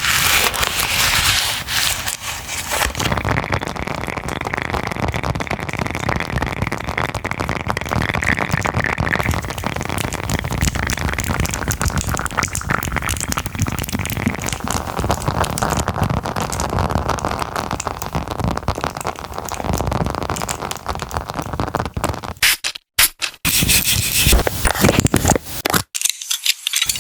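Packaging being handled close to the microphone: continuous crackling and scraping with many small clicks, broken by two brief drops to silence late on.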